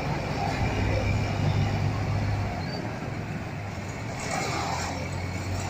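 A motor vehicle's engine running with a steady low hum, under an even noise.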